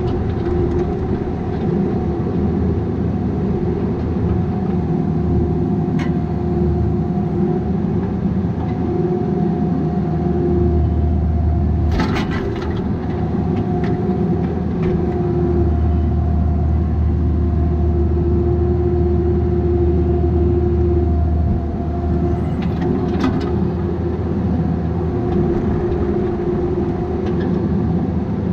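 Bobcat 337G mini excavator's diesel engine running steadily, its low rumble growing heavier for stretches as the machine works under load. A few sharp knocks break in, the loudest about halfway through and another near the end.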